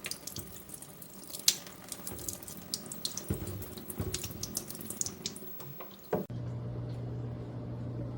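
Water running and splashing, cutting off abruptly about six seconds in, after which a steady low hum takes over.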